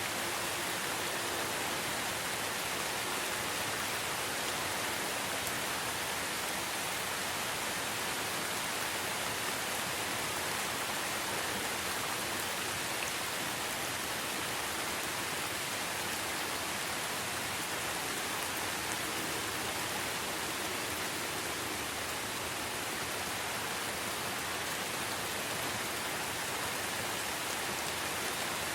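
Steady rain falling in a forest, an even hiss of many drops.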